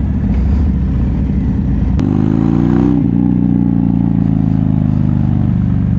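Harley-Davidson V-twin motorcycle engine under way. About two seconds in there is a click, the revs climb for under a second, then drop sharply as with a gear change, and the engine runs on steadily with slowly falling pitch.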